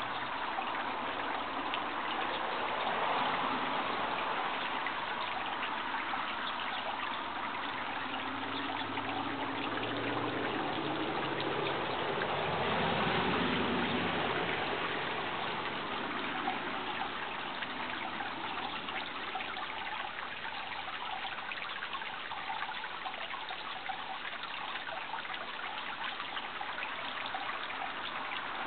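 Running water of a stream, trickling steadily, swelling slightly about halfway through.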